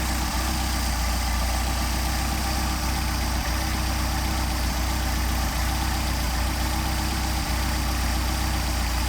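Mercedes-Benz 190SL's four-cylinder engine with twin Solex carburetors idling steadily at about 800 rpm.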